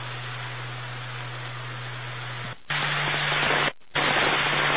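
Police scanner radio static between transmissions: a steady hiss with a low hum under it, which cuts out briefly twice, a little after two and a half seconds in and again near four seconds, and comes back louder each time as a channel is keyed without speech.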